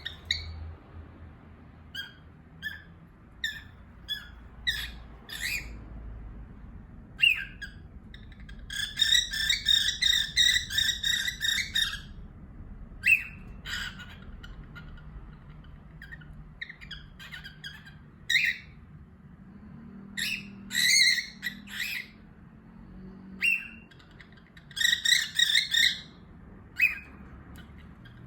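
Small pet parrots chirping: scattered short high calls, with runs of rapid repeated chirping about nine seconds in, again around twenty seconds and near the end.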